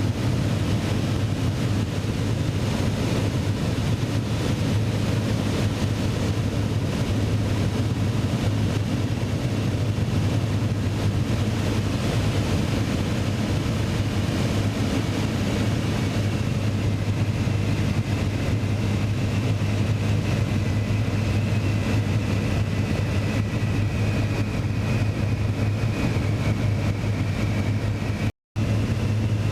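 Piston aircraft engine droning steadily at constant power, with an even low hum that does not change. The sound cuts out for a split second near the end.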